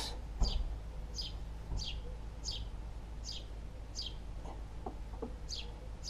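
A small bird chirping over and over, each call a short high note falling in pitch, repeated roughly every second. A few faint soft knocks come a little after the middle.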